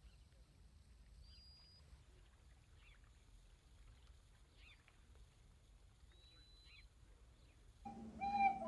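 Faint small-bird chirps and short thin whistles over a quiet outdoor background. Near the end the sound cuts abruptly to a steady low hum with a loud, clear pitched note over it.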